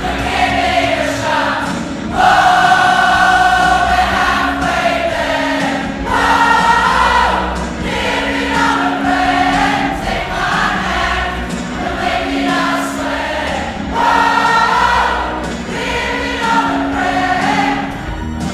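A choir singing live, in long held phrases over a steady lower part.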